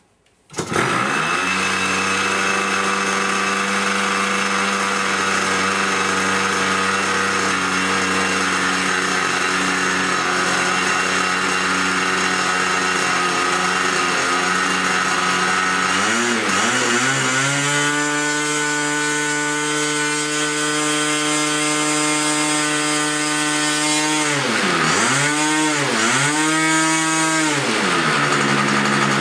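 90-size glow-plug model airplane engine catches about half a second in and idles steadily. A little past halfway it is throttled up to a higher, steady pitch, dips and climbs again twice, then drops back to idle near the end.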